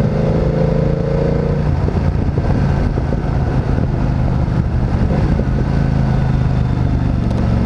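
Motorcycle engine running steadily at low revs, with a brief rising whine in the first second and a half.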